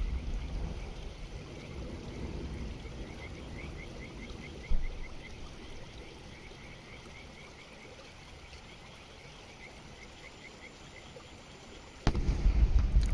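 A single firework shell bursting with a sharp boom about five seconds in, over a faint, regular high chirping. Near the end a loud low rumble starts suddenly.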